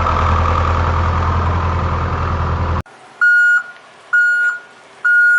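A vehicle engine running steadily, cutting off abruptly about three seconds in. Three evenly spaced reversing beeps follow, about one a second.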